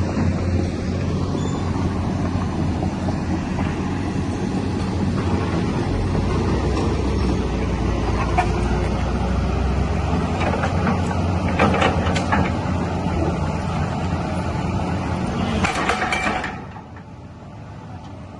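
Doosan DX220 excavator's diesel engine running steadily with some brief metallic squeaks and clanks, then dropping away sharply near the end as the machine is shut down for the day.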